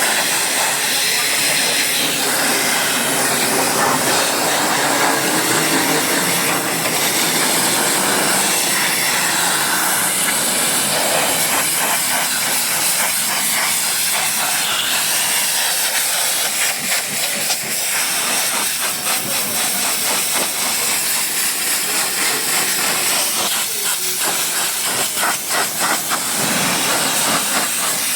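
Pressure-washer spray hissing steadily against a vehicle, with the spray flickering unevenly for a few seconds near the end.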